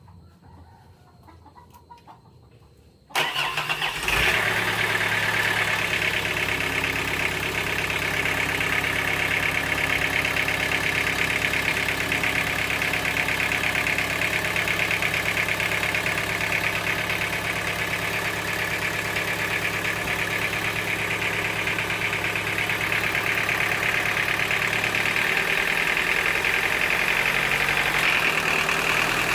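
A sawmill engine starts abruptly about three seconds in, then runs steadily at an even pitch.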